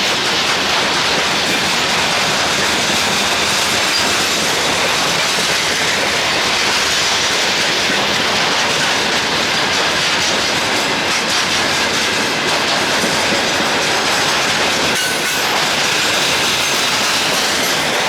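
Freight train rolling past, a loud, steady rumble of wheels on rails with wheel clatter.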